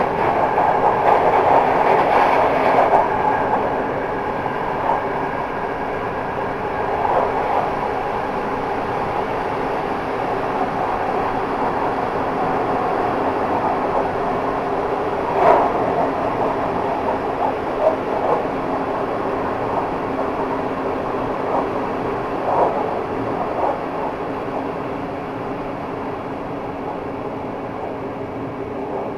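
Passenger train running at speed, heard from the last coach: a steady rumble of wheels on the rails with a few sharp clacks, the loudest about halfway through. The running noise is louder for the first few seconds and slowly gets quieter toward the end.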